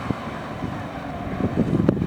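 Crown CG70S-7 propane forklift running, a steady low engine noise that grows louder and rougher, with rattling knocks, about one and a half seconds in.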